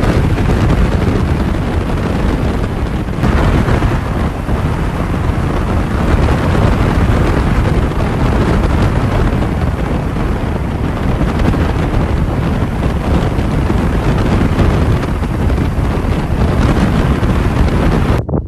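Heavy wind buffeting on the microphone of a motorcycle moving at speed, a steady loud rush with the engine buried under it. It cuts off abruptly near the end.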